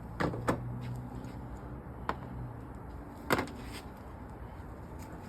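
Four sharp clicks and knocks of a hand wrench and small metal parts being handled, the loudest about three seconds in, as the shaker hood scoop's acorn nuts come off. A faint low hum runs under the first couple of seconds.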